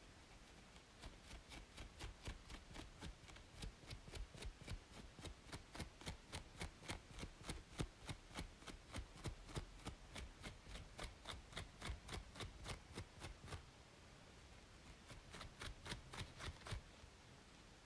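Rapid scratching on a scalp between braids, about four or five quick strokes a second, stopping briefly near the end and then starting again, over a faint steady white-noise hiss.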